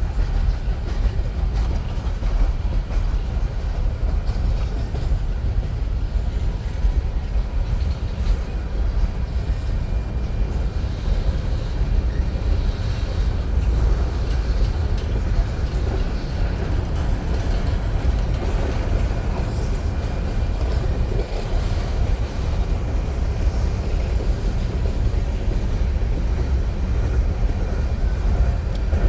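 Union Pacific freight train rolling past, a steady low rumble of wheels on rail with no break.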